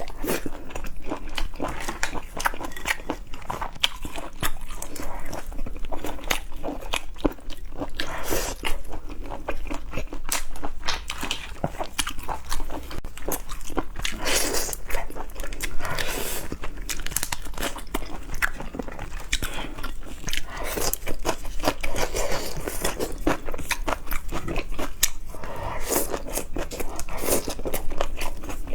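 A person chewing and biting seafood close to the microphone: a continuous run of crunches and small sharp clicks.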